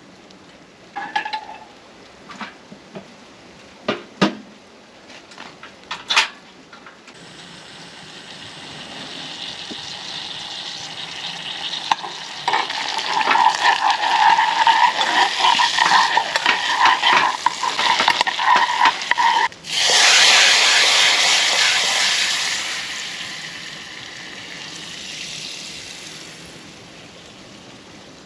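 A few sharp clinks and knocks, then food frying in a pan, its sizzle building up with crackle. About twenty seconds in, a sudden louder burst of sizzling starts and dies away over several seconds.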